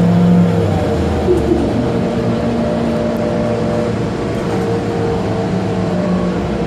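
Interior sound of an Orion VII CNG transit bus underway: the natural-gas engine and drivetrain running steadily under the hum of the air-conditioning. The low engine note shifts about a second in.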